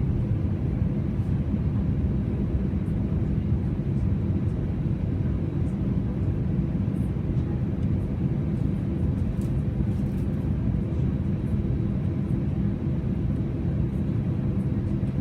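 Airbus A320 cabin noise heard from a passenger seat: a steady low rumble of the engines and the moving airframe that holds even throughout.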